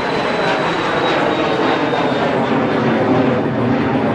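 Embraer Phenom 300 business jet's twin turbofan engines running loud and steady as the jet passes, a dense rushing roar with a thin high whine that slowly drops in pitch.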